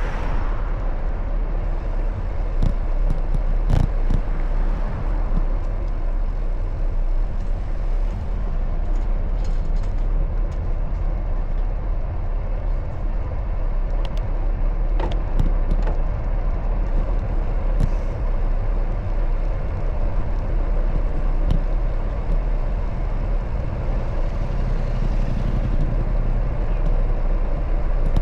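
Steady rumble of wind and road noise from riding a bicycle through city traffic, with a few scattered light clicks.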